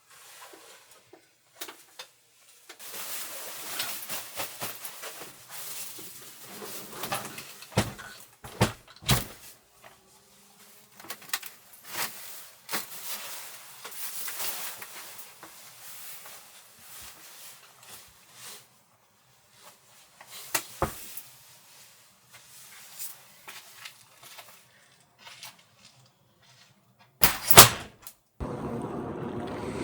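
Objects being handled in a small enclosed space: rustling with scattered clicks and knocks, a loud knock near the end, then a steady rush of wind noise.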